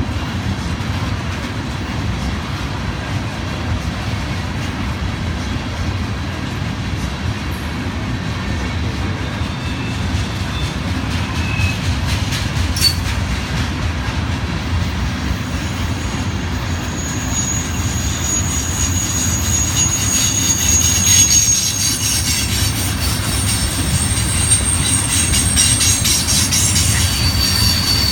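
Freight train of railroad tank cars rolling past with a steady low rumble of wheels on rail. From a little past halfway, high-pitched wheel squeal comes and goes and the sound grows somewhat louder toward the end.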